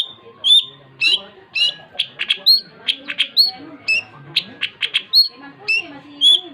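Long-tailed shrike (cendet) singing vigorously: loud, sharp rising notes repeated about twice a second, broken in the middle by a quick run of harsh clicking chatter before the repeated notes resume.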